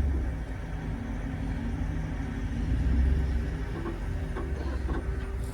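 A car engine idling steadily with a low rumble, swelling a little about three seconds in.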